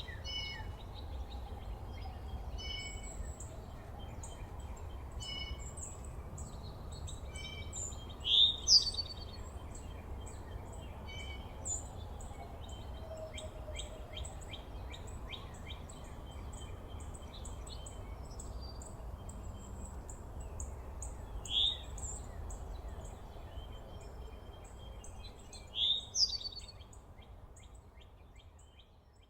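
Several small songbirds chirping and calling, with repeated short chip notes and a few loud, sharp slurred calls standing out, over a low steady outdoor rumble. The sound fades out near the end.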